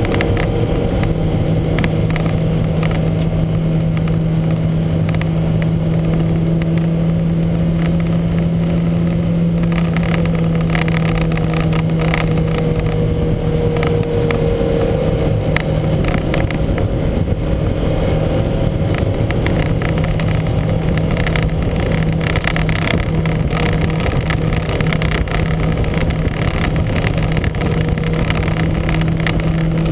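Lancia Montecarlo's twin-cam four-cylinder engine running at a fairly steady pitch, with a rapid irregular crackle over it from the car's heavy misfire.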